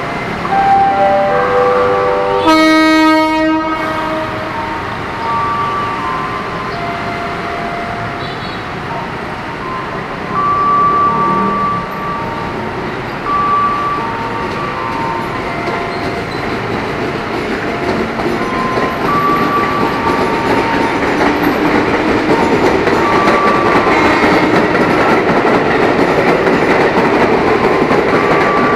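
KRL Commuterline electric train pulling out of the station. One horn blast sounds about three seconds in, with whining tones that shift in pitch. The rumble and clatter of its wheels on the rails grows louder toward the end as the train picks up speed.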